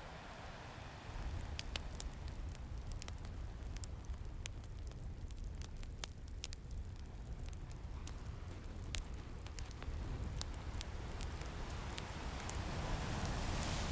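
Wood fire crackling with irregular sharp pops over the low, steady wash of ocean waves; a wave swells up louder near the end.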